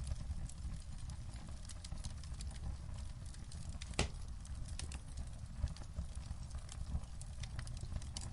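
Wood fire crackling in a fireplace: a steady low rumble of burning with many small irregular pops and snaps, one louder sharp pop about four seconds in.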